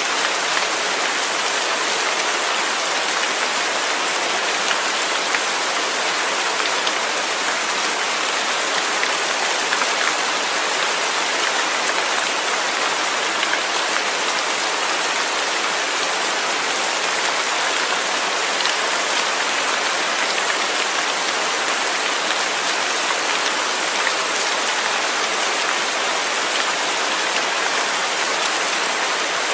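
Steady rain falling and pattering on a surface, an even hiss of many drops with no change in strength.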